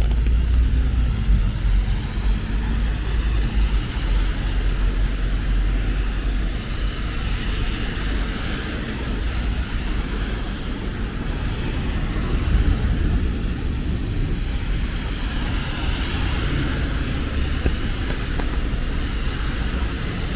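City traffic on a rain-wet street: a steady low rumble of engines with car tyres hissing over wet road, the hiss swelling and fading twice as vehicles pass.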